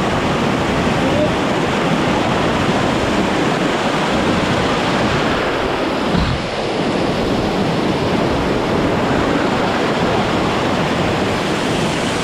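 Loud, steady rush of a waterfall's cascading water close to the microphone, with a brief low knock about six seconds in.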